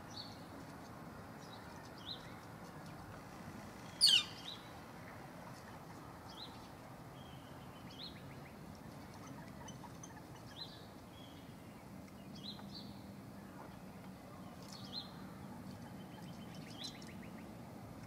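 Wild birds calling: short, high rising chirps repeated every second or two, with one loud call sliding down in pitch about four seconds in. A faint rapid trill comes in near the end, over a low steady background hiss.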